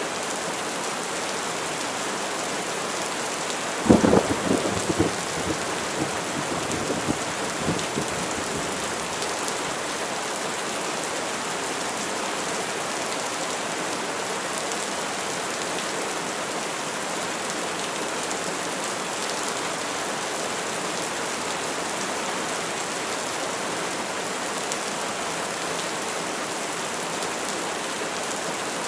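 Steady heavy rain hissing. About four seconds in, a sharp crack of thunder breaks in and rumbles away over the next few seconds.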